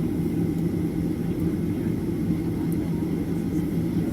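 Steady cabin noise of a Boeing 737-800 on the ground before takeoff, its CFM56-7B engines at idle: an even low rumble with a steady hum.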